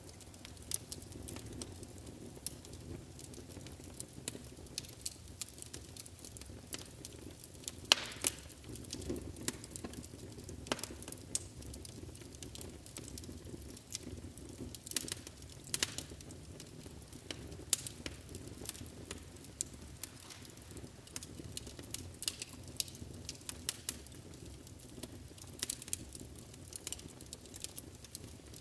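Wood fire burning in a fireplace: a steady low rumble of the flames with irregular sharp crackles and pops from the burning logs, one louder pop about eight seconds in.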